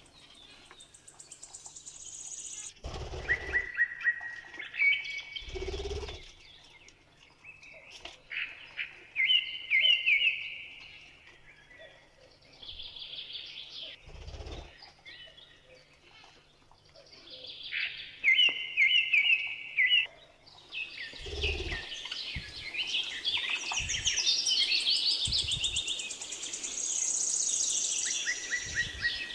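Budgerigars chirping and warbling in bursts of rapid, high chirps with short pauses between them. A few dull low thumps are mixed in.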